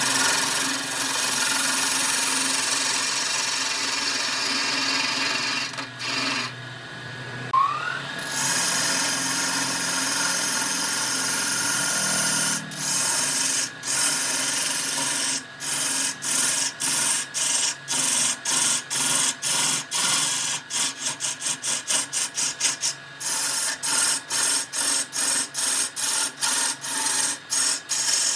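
Power tool grinding or sanding wood. It spins up with a rising whine, stops briefly about six seconds in and spins up again near eight seconds, then runs steadily against the wood. In the second half it keeps cutting in and out in quick short gaps, several a second at the densest.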